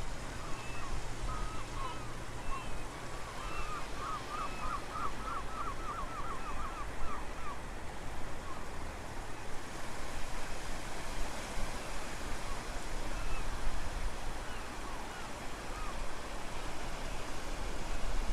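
Strong wind buffeting the microphone over the steady wash of the sea at low tide, with birds calling; about four seconds in, one gives a quick run of a dozen rapid chirps.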